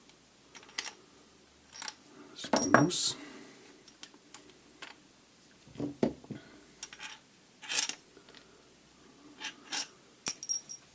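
Screws and small metal pump parts clinking and knocking in scattered clicks, with the loudest clatter about two and a half seconds in.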